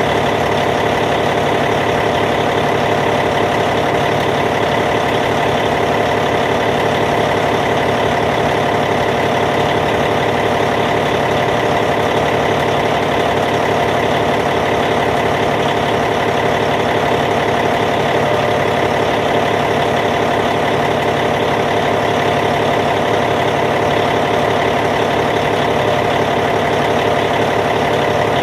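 Caterpillar C15 diesel engine of a Cat D8T bulldozer idling, a steady even drone that does not change.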